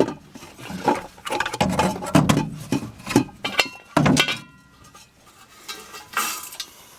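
Metal tools and engine parts clinking and clattering during work under a truck's hood: a string of irregular knocks and clanks, one of them ringing briefly about halfway through.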